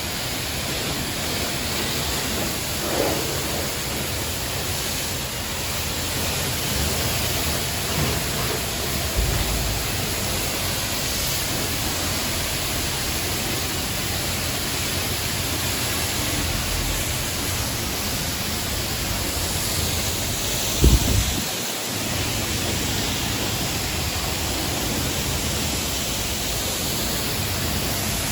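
A self-serve car wash's high-pressure wand sprays water onto a car in a steady hiss. A few short knocks come through, the loudest about 21 seconds in.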